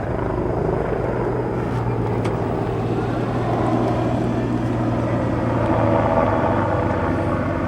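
Bell 407 helicopter's turbine and rotors running steadily in flight: a continuous low hum.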